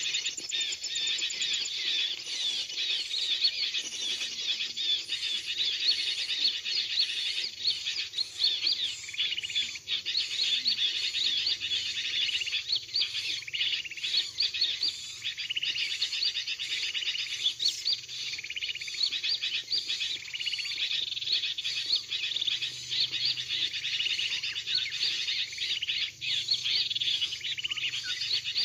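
A dense, unbroken chorus of high chirps and twitters. It is a bird-trapping lure call: a recording of noisy bulbul song mixed with small-bird calls, played to draw birds in.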